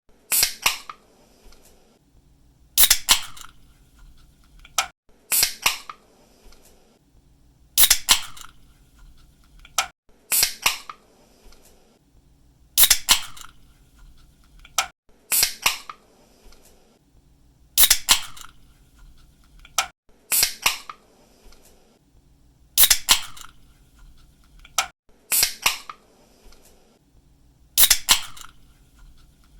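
Aluminium pull-tab drink cans being cracked open, one about every two and a half seconds, about twelve times. Each opening is a sharp snap of the tab followed by a short hiss of escaping gas.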